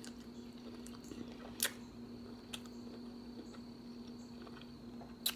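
Quiet wet eating sounds: soft smacks and clicks of chewing and handling sauce-covered seafood, with two sharper clicks, one about a second and a half in and one near the end, over a steady low hum.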